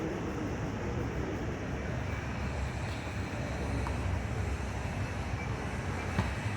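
Wind buffeting the microphone: a steady low rumble with a faint hiss over it, and one faint short knock near the end.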